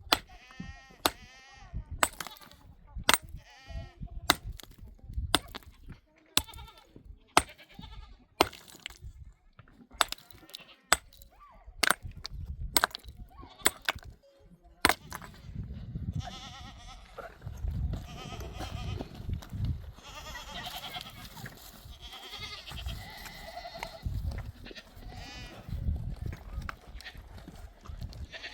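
A herd of sheep and goats bleating, with sharp clicks and knocks through the first half. About halfway in, it thickens into a denser din with a low rumble underneath.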